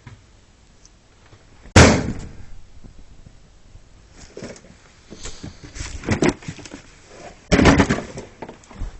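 Thumps and clatter of household clutter being moved and knocked about: one loud bang about two seconds in, then scattered knocks, and a louder scraping, rustling burst near the end.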